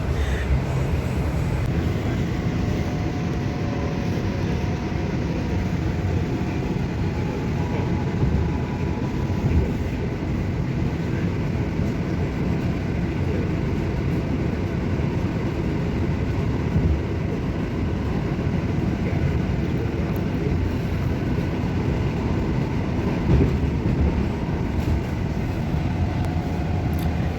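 Steady low rumble of a Washington DC Metro train car running slowly, heard from inside the car, with a faint whine coming and going.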